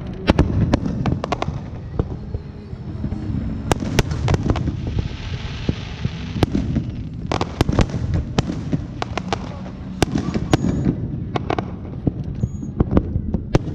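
Fireworks going off in quick, irregular succession: many sharp bangs and cracks over a continuous low rumble, with a stretch of denser hissing crackle about five seconds in.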